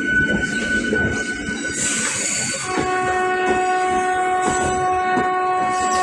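EMU local electric train running into the station with rumble and rail noise. A thin high squeal sounds over the first two seconds. A train horn then sounds one long steady note from a little before halfway on.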